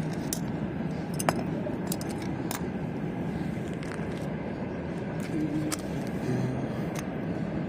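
Scattered light metallic clicks and clinks of small parts and tools being handled, over a steady background hum.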